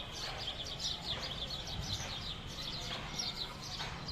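Small birds chirping busily: a rapid run of short, high, falling chirps that continues throughout, over a steady outdoor background hum.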